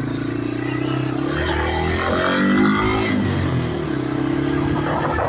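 Yamaha TW200's single-cylinder four-stroke engine running under way; the engine note rises about two seconds in and drops again a second later before settling.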